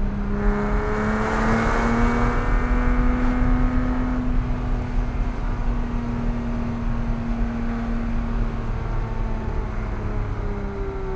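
Porsche 987.1 Cayman S's 3.4-litre flat-six engine pulling under acceleration, its note rising over the first couple of seconds and getting louder, then holding a steady pitch before falling near the end, over steady road and tyre rumble.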